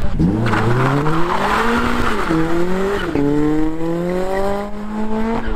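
A car accelerating hard away through the gears. The engine revs climb, drop sharply at gear changes about two and three seconds in, then climb again.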